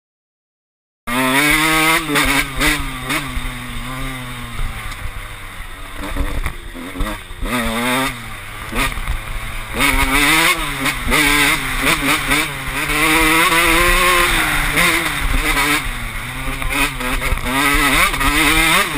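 KTM SX125 single-cylinder two-stroke motocross engine, heard from on board, revving up and down as the bike is ridden along a dirt trail, its pitch rising and falling with throttle and gear changes. The sound cuts in suddenly about a second in.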